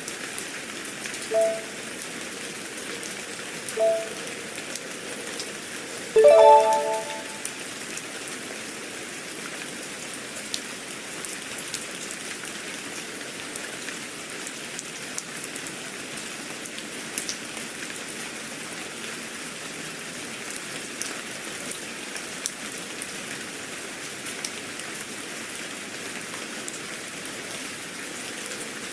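Steady rain falling on a surface, an even hiss with scattered drop ticks. In the first few seconds, short electronic two-note beeps sound three times, then a louder chime about six seconds in.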